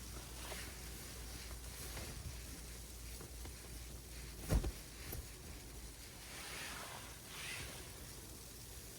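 Sleet and snow falling on the tent fabric: a faint, steady hiss with a couple of soft swells in the second half. A single sharp thump about halfway through.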